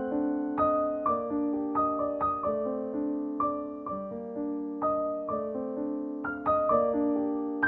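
Gentle background piano music, with notes struck a few times a second and left to ring out.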